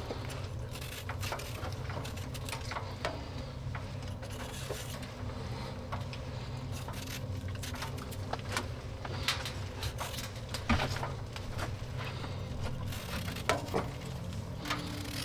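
Cooking clatter of utensils and cookware: scattered light clicks and knocks, with a few sharper knocks about ten seconds in and again near the end, over a steady low hum.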